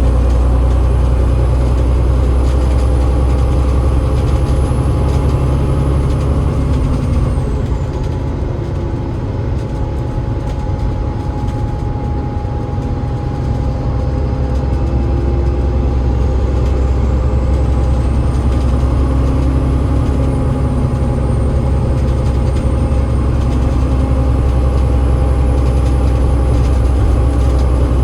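Enviro500 MMC double-decker bus heard from on board, its Cummins ISL8.9 diesel engine and ZF EcoLife automatic gearbox running with a steady low drone. A faint high whine falls about seven seconds in and rises again later, and the sound eases a little in the middle before building back up.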